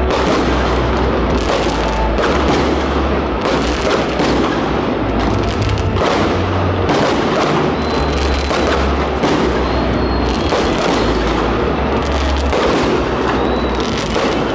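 Fireworks display: a dense, continuous run of bangs and crackles, over music with a heavy bass line.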